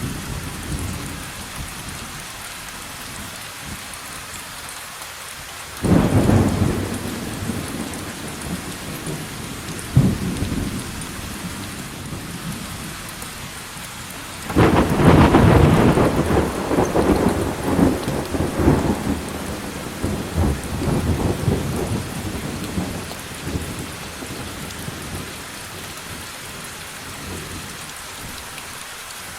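Steady rain with thunder. A sharp clap about six seconds in and a short crack near ten seconds, then the loudest rolling peal from about halfway through, rumbling on and fading away over several seconds.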